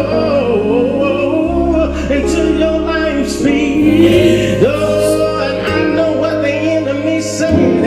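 Gospel singing: a voice holds and bends long wordless notes over instrumental accompaniment with a bass line that steps between notes.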